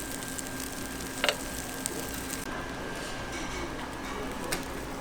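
Bungeoppang batter sizzling in hot fish-shaped griddle moulds. There is a short metallic clink about a second in and a sharp tick near the end.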